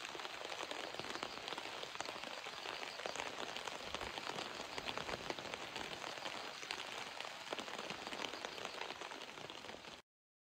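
Steady rain falling, an even hiss dotted with many small drop ticks, which cuts off suddenly about ten seconds in.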